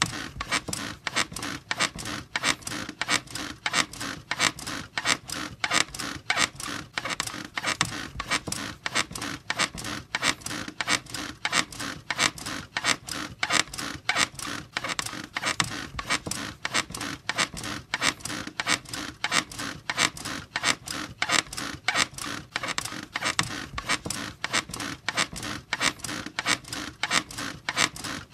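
Bed springs squeaking in a steady rhythm, about two or three squeaks a second, the creak of a bed being rocked repeatedly.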